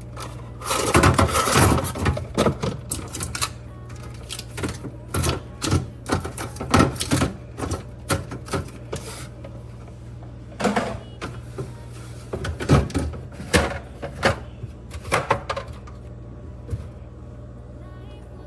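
Irregular clatter, clicks and knocks of food containers and jars being moved and set down on refrigerator shelves, over a steady low hum.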